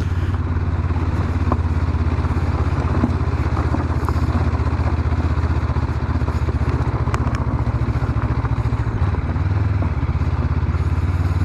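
Honda CB500X's parallel-twin engine running at steady, low revs while riding, its even pulse carrying through, with a few faint scattered clicks over it.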